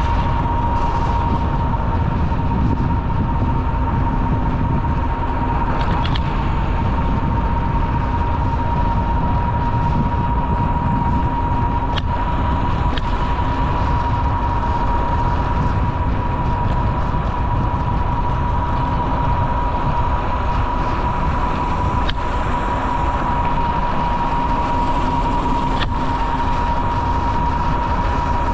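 Riding noise from a bicycle on the trail: a steady low rumble of tyres and wind over a constant high whine, with a handful of sharp clicks.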